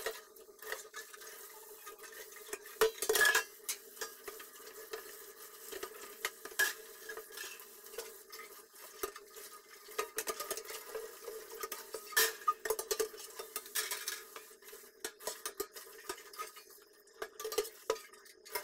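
Oven trays being scrubbed and handled in a kitchen sink: continuous scrubbing and scraping, with sharp clanks of the trays here and there.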